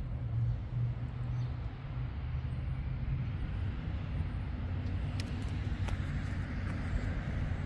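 A 2007 Chevrolet Trailblazer SS's stroked 408 V8 (6.0 L LQ9 iron block, BTR stage 3 camshaft, long-tube headers) idling with a steady low hum. A few light clicks come about five to six seconds in.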